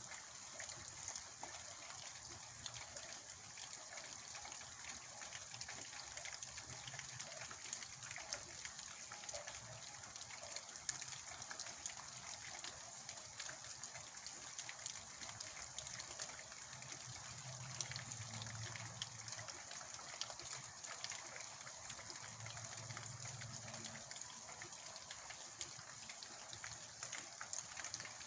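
Steady heavy rain, a constant hiss dense with the ticks of individual drops. A low rumble rises twice, about two-thirds of the way in and again a few seconds later.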